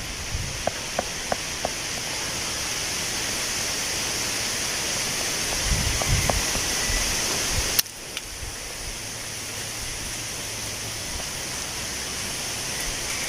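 Wind blowing through tree leaves, a steady rustling hiss that slowly grows louder, then drops back suddenly with a sharp click about eight seconds in. A few faint ticks come in the first two seconds and a few low thumps around six seconds.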